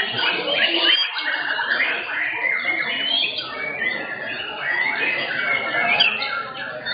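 Several white-rumped shamas (murai batu) singing at once, a dense tangle of overlapping whistles, trills and chatter without a break.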